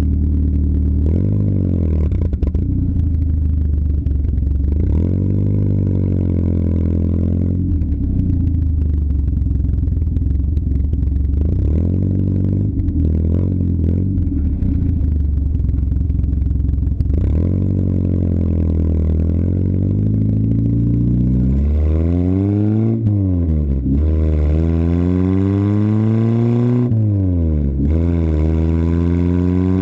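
Simca car's engine running through its exhaust, its pitch swelling up and down a few times, then revved up and dropped back several times in quick succession in the second half.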